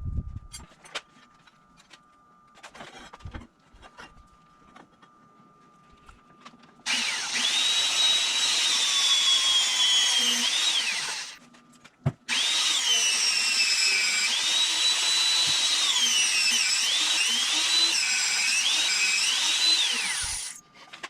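Drill with an annular cutter boring through half-inch steel plate, starting about seven seconds in: two long spells of cutting with a brief stop between them, a loud screeching whine that wavers up and down in pitch. The cutter is worn and nearly dead.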